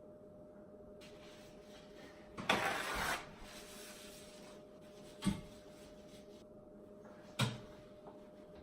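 Kitchen handling sounds: a short scraping rustle about two and a half seconds in, then two single knocks, over a faint steady hum.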